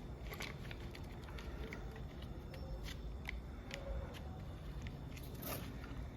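Scattered light clicks and taps of small parts and tools being handled during string-trimmer clutch work, with a short scrape about five and a half seconds in.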